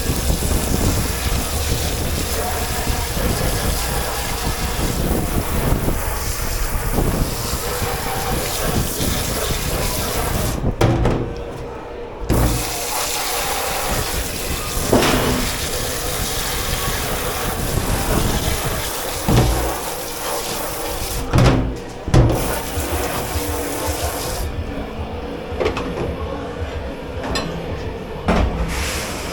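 Water running hard into a dish-pit sink, shut off briefly twice and then turned down near the end, with a few knocks in between.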